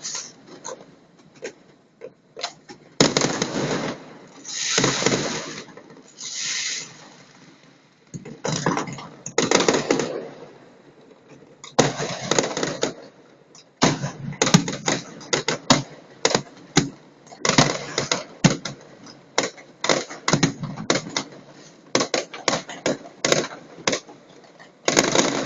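Aerial fireworks exploding in quick succession. A few longer bursts with crackling tails come in the first half, then dense volleys of sharp bangs from about halfway on.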